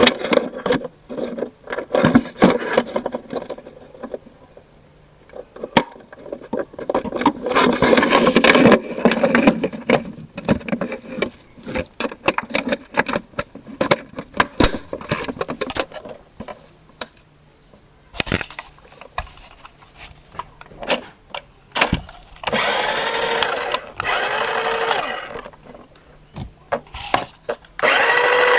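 Handling of plastic toys and packaging, with many clicks, rattles and knocks and a small toy motor whirring in the middle. About three quarters of the way through, a loud electronic toy siren starts, wailing in repeated rising-and-falling sweeps. It stops, then starts again near the end.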